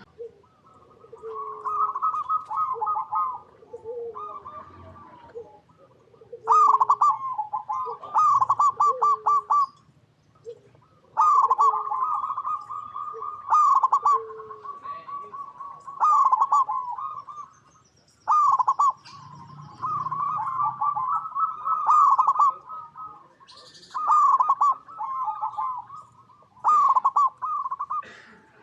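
Zebra doves (perkutut) cooing: about a dozen phrases one after another with short gaps, each a rapid rolling run of notes, with softer lower coos between them.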